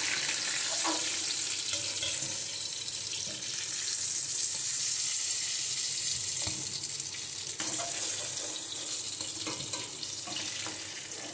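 Eggplant wedges sizzling steadily in hot oil in a steel kadai, with a few light taps and scrapes of a steel spatula as pieces are lifted out. The sizzle eases a little near the end.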